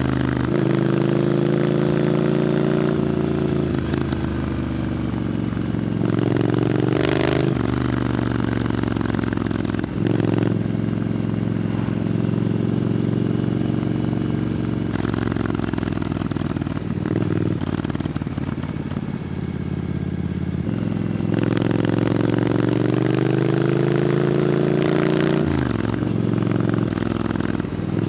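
Triumph Scrambler 900's parallel-twin engine running through an Arrow aftermarket exhaust while riding. The note rises and falls, with several brief dips in pitch along the way.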